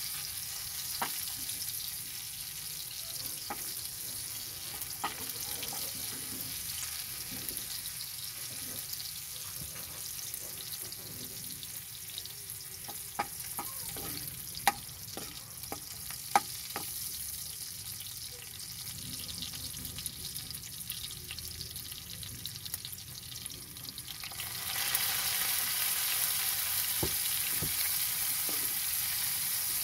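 Onions and garlic sizzling in hot oil in a wok, stirred with a metal ladle that clicks and scrapes against the pan now and then. Near the end the sizzling becomes louder as sliced bell peppers go into the oil.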